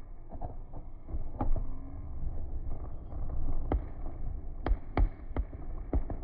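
Fireworks exploding: a run of sharp bangs at uneven intervals, most of them bunched in the second half, over a low rumble.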